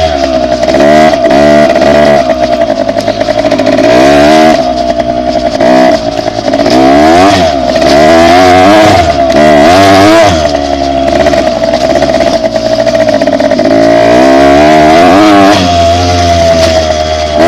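Dirt bike engine running loud while ridden, its pitch rising and falling again and again as the throttle is opened and closed, with gusts of wind noise.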